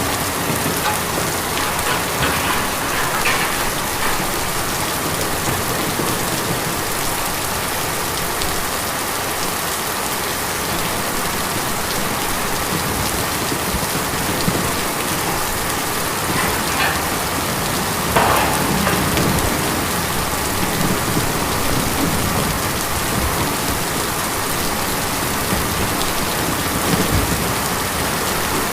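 Steady heavy rain drumming on a tin roof, with a few louder drops standing out now and then.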